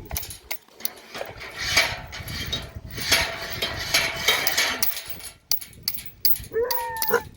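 Metal knocking and scraping on an iron gate: a dense, uneven run of sharp knocks and clatter, with a short high whine near the end.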